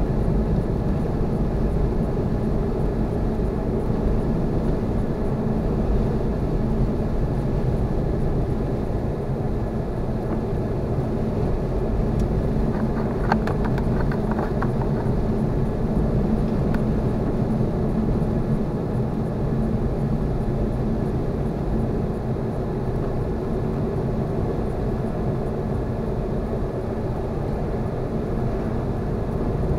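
Steady in-cabin road and engine noise from a Honda CR-V driving on snow tires: a low, even rumble.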